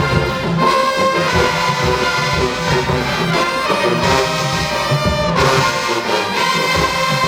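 A marching band playing loudly, with a brass section of trombones and trumpets carrying sustained chords over a steady drum beat.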